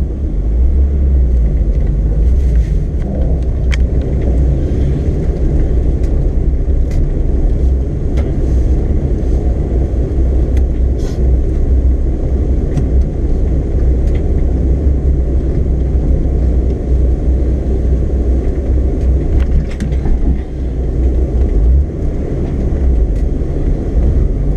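Car engine running at low speed as the car rolls slowly, heard from inside the cabin as a steady low rumble with a few faint ticks.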